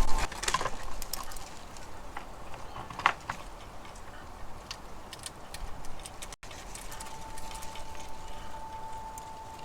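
Outdoor ambience with scattered light clicks and taps, and a steady ringing tone that starts about two-thirds of the way in and holds.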